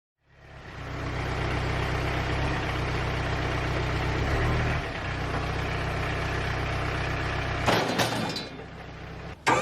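Engine running steadily at idle, with a brief shift in its note about halfway through. A knock comes about eight seconds in, and the engine sound drops lower after it.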